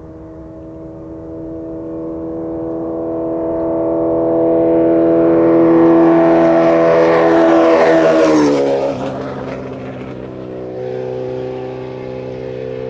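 Suzuki Hayabusa inline-four with a full VooDoo 4-into-1 exhaust, baffle removed, riding past at a steady speed. The engine note grows louder as it approaches, drops sharply in pitch as it passes about eight and a half seconds in, then carries on at a lower pitch as it moves away.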